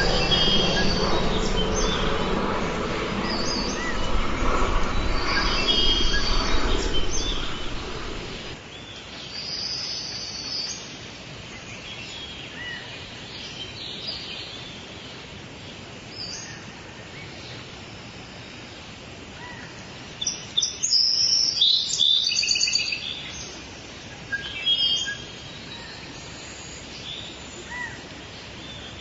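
Small songbirds chirping, with short high calls scattered throughout and a louder flurry of chirps about twenty seconds in. A passing engine rumble, from a vehicle or aircraft, fades out over the first eight seconds.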